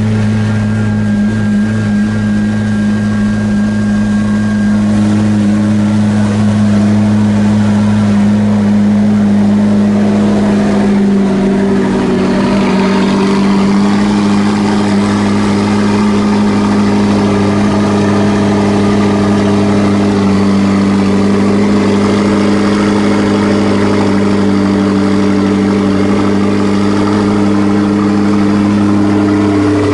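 McLaren P1's twin-turbo V8 idling steadily and loudly just after a cold start. The exhaust note turns brighter about twelve seconds in.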